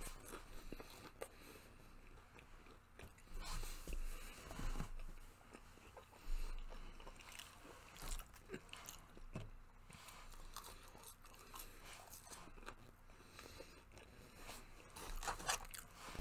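Close-up mouth sounds of eating fast food: chewing on a buffalo-sauced chicken nugget and fries, with short louder moments scattered through, and a rustle as a hand goes into a paper fry bag.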